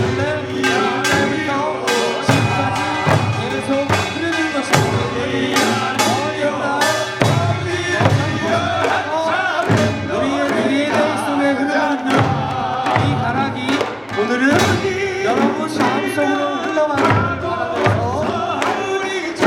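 Korean pungmul folk music: singing with wavering melodic lines over a steady beat of drum and small-gong strokes.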